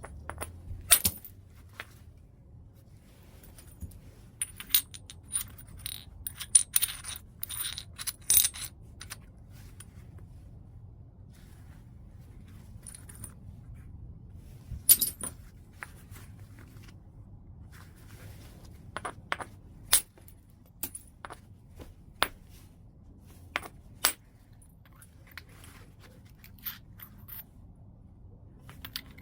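White chert being knapped: scattered sharp clicks and clinks of the knapping tool striking the stone and flakes snapping off. A single strong strike comes about a second in, a quick run of lighter clicks follows a few seconds later, another strong strike falls near the middle, and a further group of clicks comes toward the end.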